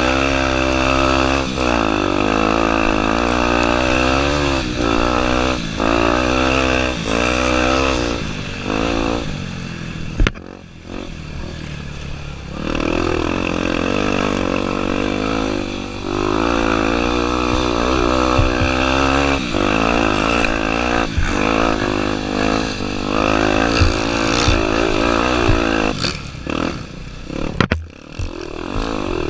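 Honda Tornado 250's single-cylinder four-stroke engine running hard, its revs rising and falling again and again as the throttle is worked. About ten seconds in there is a sharp knock and the engine eases off for a couple of seconds, then pulls again; it dips once more near the end.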